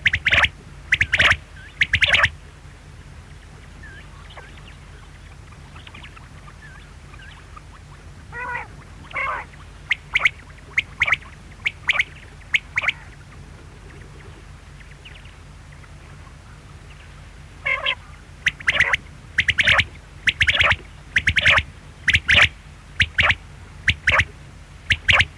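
Quail calling in runs of short, sharp repeated notes, in three bursts with gaps of several seconds between them, over a steady low hum.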